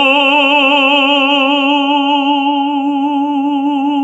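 A tenor holding one long operatic note in classical (bel canto) style, loud and with an even vibrato.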